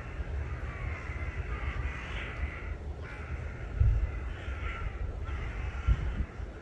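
Crows cawing in a couple of bouts of harsh calls over a steady low rumble, with two brief low thumps.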